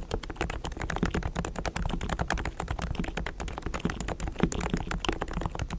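Continuous fast typing on a Realforce R3 tenkeyless Topre electrostatic capacitive keyboard with 45 g silent, equal-weight switches, many keystrokes a second. Its sliders, springs and stabilisers are lubricated with Krytox and the case is foam-dampened, the mods meant to give a smooth typing sound without keycap rattle or ticking.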